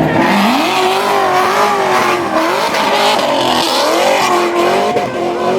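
Car engine revving high during a street-takeover burnout, its pitch swinging up and down, with tyres screeching over it.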